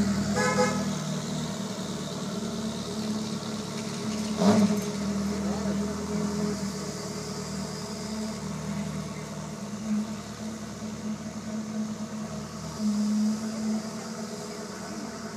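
Ferrari F40's twin-turbo V8 running at low revs as the car pulls slowly away, gradually fading. A sharp loud burst comes about four and a half seconds in, and the engine sound swells briefly near the end.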